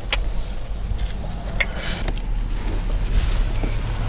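Steady low rumble of a police car's engine and road noise heard from inside the moving car, with a few short clicks.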